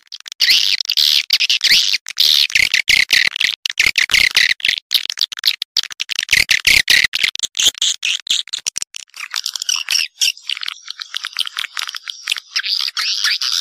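Swiftlets twittering: a dense, unbroken chatter of rapid, rattling high chirps and clicks. About two-thirds in, the chatter thins and sits higher.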